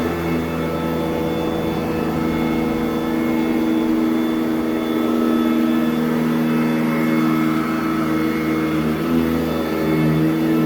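Sanitaire SC899 commercial upright vacuum running steadily on carpet with a constant motor hum, its pitch shifting slightly near the start and again near the end.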